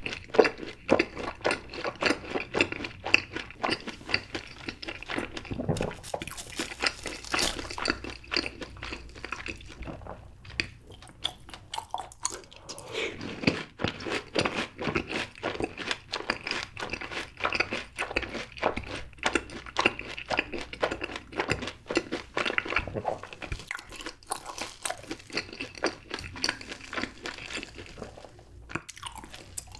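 Close-miked chewing of crisp fried cheese balls: a dense run of crunching crackles, louder and brighter about six to eight seconds in.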